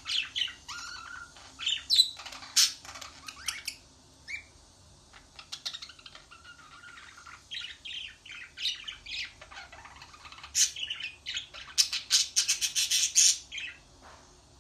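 Bird chirping and squawking in short, high, sharp calls that come in irregular clusters. There is a brief lull about four seconds in, and a fast, rattling run of chirps near the end.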